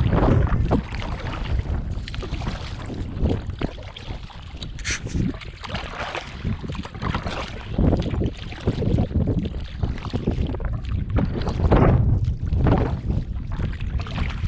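Strong wind buffeting the microphone on choppy open water, mixed with the rush of water around a canoe. It gusts louder and softer, easing about four seconds in and rising again near the end.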